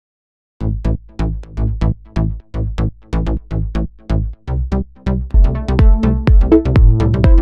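Melodic house loop playing back from a DAW: a steady kick drum with a pulsing synth bass under it. A sustained synth melody joins about five seconds in.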